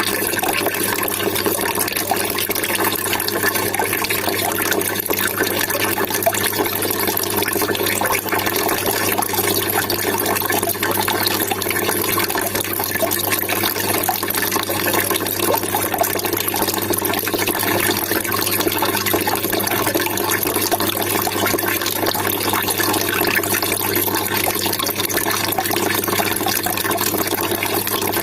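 Water trickling and splashing steadily and without a break, with a steady low hum underneath.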